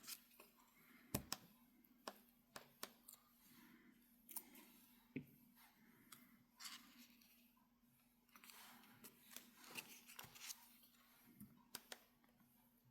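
Very faint paper handling at a craft table: scattered light clicks, taps and short rustles as small paper die cuts are picked up and placed.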